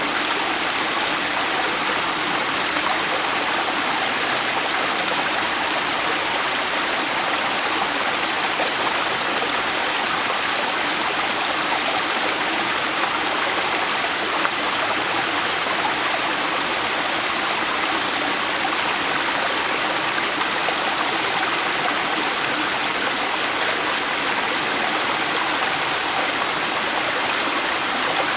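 River water flowing over rocks: a steady, even rush of moving water with no breaks or changes.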